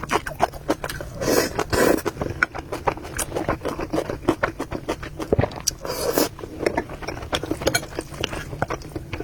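Close-miked eating of noodles: steady chewing with many small wet mouth clicks, and a couple of short slurps.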